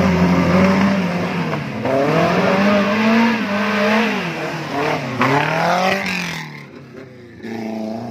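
Suzuki 4x4's engine revving up and down under load as it crawls up a muddy, rutted track; the revs fall away about six seconds in.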